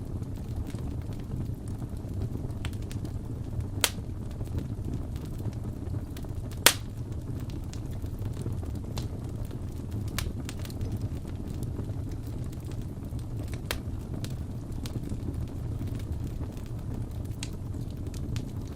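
Wood fire crackling in a fireplace: a steady low rumble of flames with sparse sharp pops and snaps, two of them louder, about four and seven seconds in.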